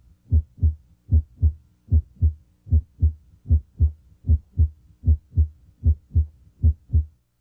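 Normal heart sounds, S1 and S2, heard at the mitral area (the apex) in a steady lub-dub rhythm of paired low thuds, about 75 beats a minute. At this area S1, from closure of the mitral valve, is usually louder than S2. The beats stop shortly before the end.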